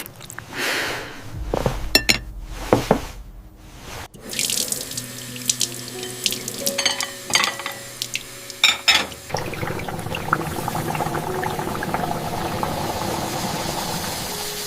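Kitchen sounds: dishes and utensils clinking and knocking several times, then, about nine seconds in, a tap starts running steadily into a sink.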